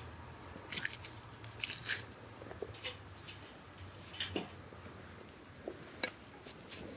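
Short, irregular crunching and scraping sounds, a dozen or so scattered through, as small objects or food are handled or cut up close to the microphone.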